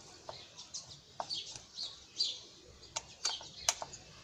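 Small birds chirping repeatedly, with a few sharp clicks in the second half, the loudest about three and a half seconds in.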